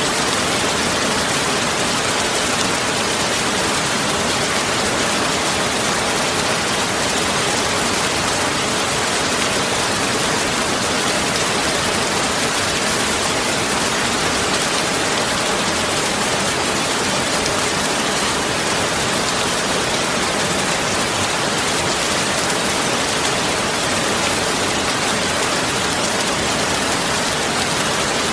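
Steady heavy rain, an even dense hiss of falling rain and drops on surfaces, with no thunder clap.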